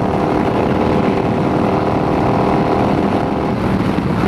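Yamaha V-Star cruiser's V-twin engine running steadily at freeway speed, under a heavy rush of wind noise. The engine note blurs near the end.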